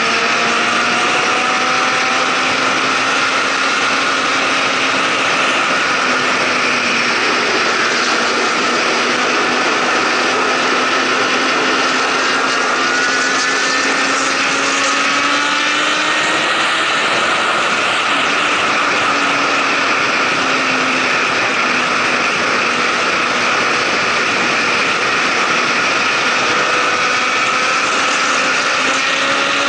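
A motorcycle engine running at highway speed under heavy wind rush, its pitch climbing slowly as the bike accelerates.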